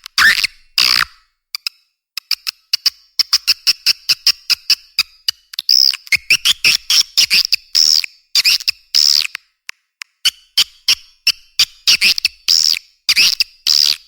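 Swiftlet lure-call recording: edible-nest swiftlet calls, rapid runs of sharp clicks mixed with high, twittering chirps. The clicks come fast and close together in the first few seconds, then louder chirps take over from about halfway.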